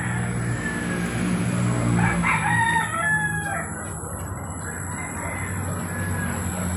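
A rooster crowing once, about two seconds in, over a steady low hum and a thin, steady high-pitched tone.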